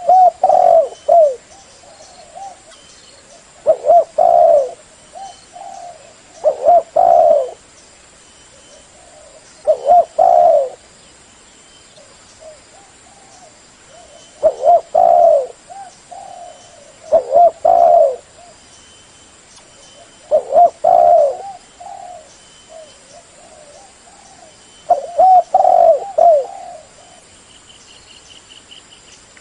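Spotted dove cooing: a short phrase of several low, rolling coo notes repeated about every three seconds, nine phrases in all.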